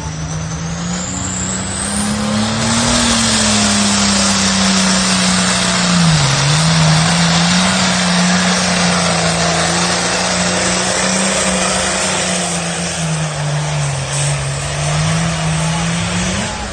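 Pulling tractor's engine running loud and hard under load, its pitch holding steady apart from two brief dips. A high whistle rises over the first couple of seconds as the engine comes up to speed.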